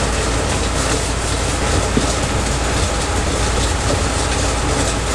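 Steady mechanical running noise with a constant low hum, holding level throughout.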